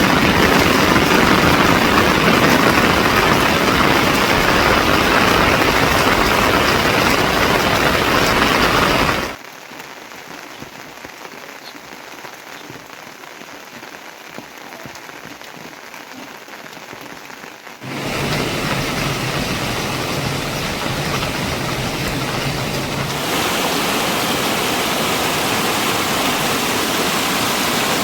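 Heavy rain pouring down as a dense, steady hiss. It is loud for the first nine seconds, drops abruptly to a much quieter patter for about nine seconds, then comes back loud.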